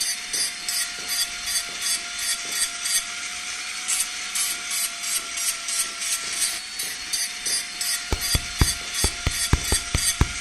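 Quick, even back-and-forth scraping strokes of a hand tool worked over the knife, about three a second. From about eight seconds in, sharp taps join at about four a second.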